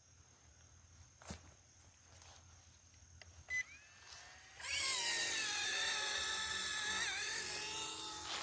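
High-pitched whine of a small electric motor on an RC model, starting suddenly about halfway through after a short beep and running fairly steadily, with a brief dip in pitch near the end.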